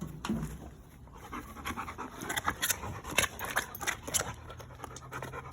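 A dog panting after playing fetch, short quick breaths several times a second.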